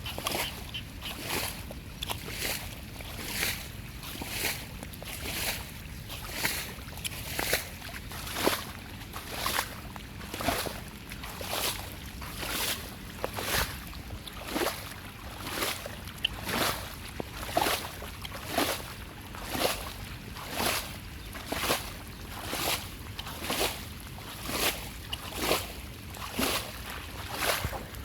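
Rhythmic splashing in shallow water, about one stroke a second, over a steady background wash of noise.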